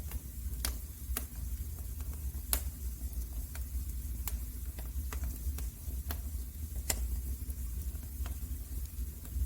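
Wood fire in a fireplace crackling: irregular sharp pops and snaps, a couple of them louder, over a steady low rumble.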